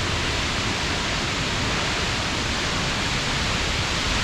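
Steady, even rush of the Bomburu Ella waterfall, heard from close to its foot.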